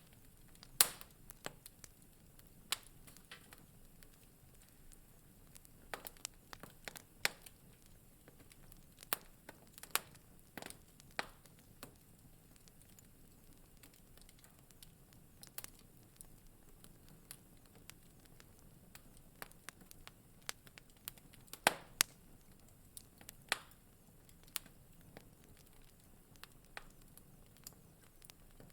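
Wood fire in a fireplace crackling: irregular sharp pops and snaps over a soft low hiss, the loudest pops about a second in and again near twenty-two seconds in.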